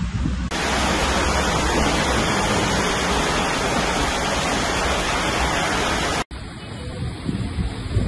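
Heavy rain pouring down onto a flooded street, a dense steady hiss. It cuts off abruptly about six seconds in, giving way to quieter outdoor noise.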